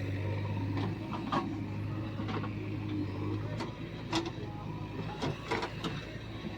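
Heavy diesel engine running at a steady low hum, with a string of sharp knocks and clatters at irregular intervals, about seven over six seconds.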